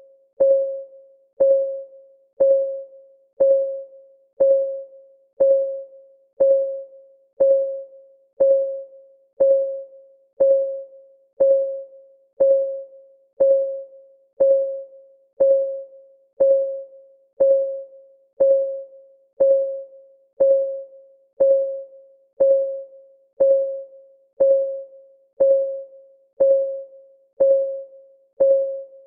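Countdown timer's clock ticking sound: a short, mid-pitched tick once a second, each ringing briefly and fading before the next, in a steady, unchanging rhythm.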